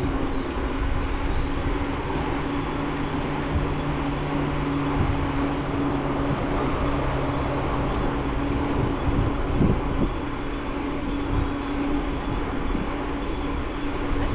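Riding a bicycle: wind rushing over the mounted camera's microphone and tyres rolling, under a steady hum. A lower hum joins in for most of the stretch, and there are a few soft knocks.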